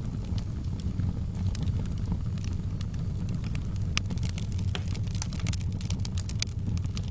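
Wood fire burning in a fireplace: a steady low rumble of the flames with scattered sharp crackles and pops, which come more thickly over the last two seconds.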